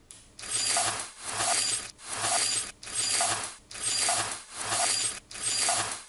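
A rhythmic clinking rattle that swells and fades about once a second.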